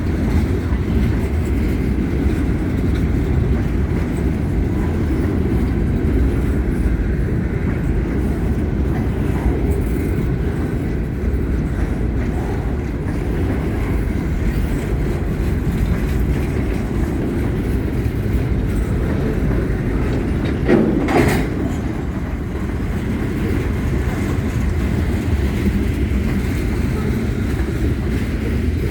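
Freight train cars rolling past at steady speed, a continuous low rumble of steel wheels on the rails, with one brief louder burst about two-thirds of the way through.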